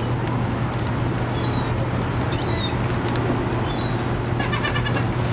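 Steady low hum and noise of city waterfront traffic, with faint seagull calls now and then and a short flurry of calls near the end.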